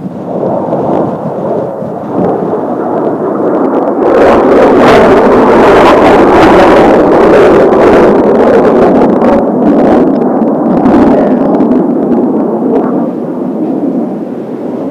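Jet roar from a formation of four Kawasaki T-4 trainers passing overhead. It swells from the start, is loudest from about four to ten seconds in, then fades away.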